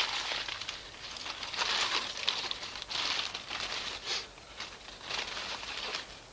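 Wood fire crackling and popping in dense, uneven surges of small snaps, dying down to a quieter hiss near the end.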